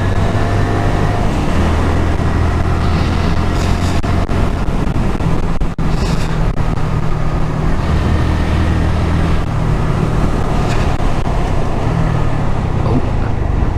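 Honda MSX125SF's small single-cylinder engine running under way on the road, its pitch stepping up and down a few times as the revs change, under a steady rush of wind and road noise.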